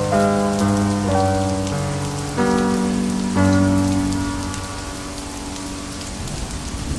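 Steady rain falling, with slow piano chords over it; the piano fades away in the second half, leaving mostly the rain.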